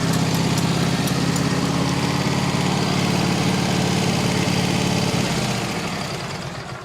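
An engine running steadily at idle, then winding down and shutting off near the end.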